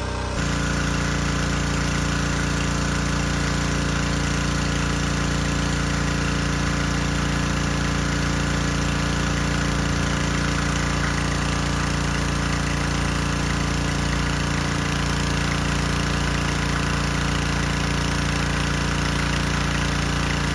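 Gas pressure washer's engine running steadily, with a steady hiss of water spray from the long extension wand that starts in the first half-second.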